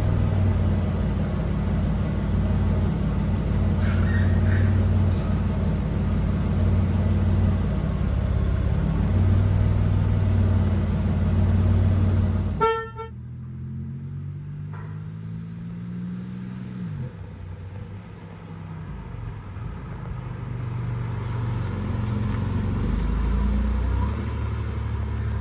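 1987 Buick Turbo T's turbocharged 3.8-litre V6 idling loudly and steadily after a cold start, through an exhaust whose catalytic converter has been hollowed out. About halfway through there is a short beep, and the sound drops abruptly to a quieter low hum whose pitch slowly rises and falls.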